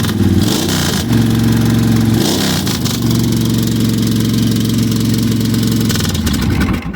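Suzuki VS1400 Intruder/Boulevard S83's air-cooled V-twin engine running and revved twice, rising and falling each time. It then settles back to idle and stops abruptly near the end.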